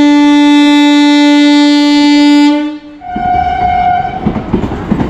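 Train horn sounding one long, steady, loud blast that ends a little over halfway through, then a shorter, higher note over a rushing, rumbling noise.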